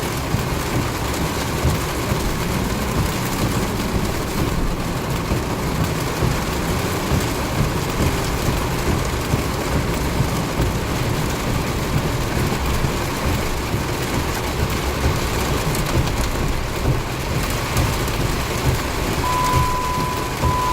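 Heavy rain pouring steadily in a thunderstorm, with a low rumble underneath. A steady high tone starts near the end and keeps sounding with brief breaks.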